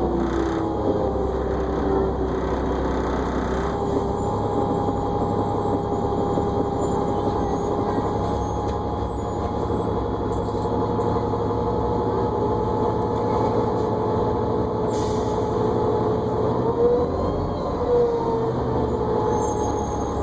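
New Flyer D40LFR diesel bus heard from inside while under way: a low engine rumble under a steady whine. The whine dips in pitch near the start and rises again near the end as the bus changes speed.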